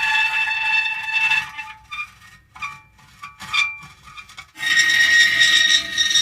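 Metal creaking: a long, high squealing creak for about a second and a half, then a few short creaks, then another long creak starting about four and a half seconds in.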